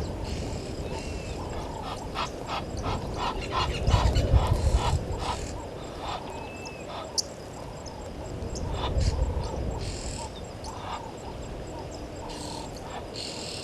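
Outdoor bush sounds at a waterhole: a quick run of animal calls, about four a second, for a few seconds near the start, a few short bird chirps, and gusts of wind rumbling on the microphone.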